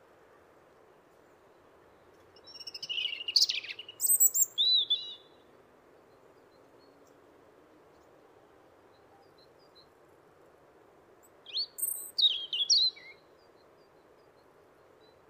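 European robin singing: two short, varied phrases of high warbling and twittering notes, the first about two seconds in and the second near the end, with a pause between them.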